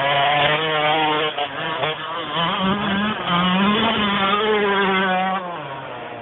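Two-stroke motocross bike engine revving hard, its pitch climbing and falling repeatedly as the throttle opens and gears change, then dropping and getting quieter near the end.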